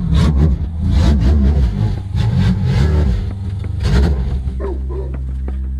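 A demolition-derby banger car's engine revving loudly in uneven bursts. Near the end a music track with a steady ticking beat comes in.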